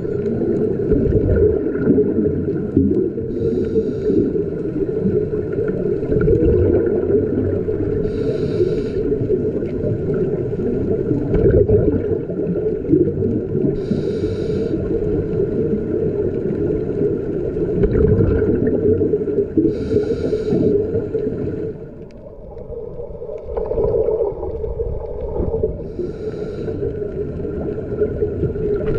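Underwater audio of a scuba diver's breathing: a steady low rumble of water and bubbles, with a short regulator hiss about every six seconds as each breath is drawn.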